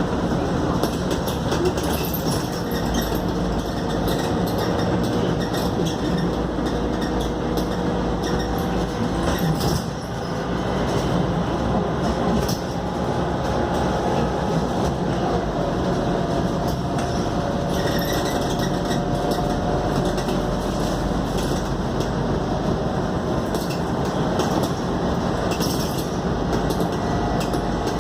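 Scania K280UD double-decker bus under way, heard from inside the cabin: a steady engine and road drone with a faint whine that slowly shifts in pitch, and light rattles and clicks from the bodywork.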